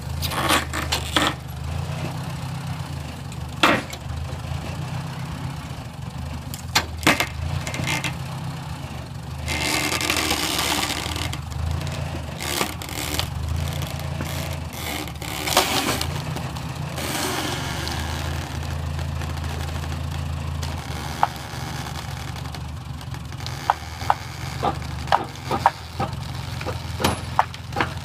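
A tractor engine runs steadily while old log timbers crack, splinter and knock as they are pulled apart, with a cluster of sharp cracks near the end. Longer stretches of crashing and scraping wood come about ten seconds in and again around seventeen seconds.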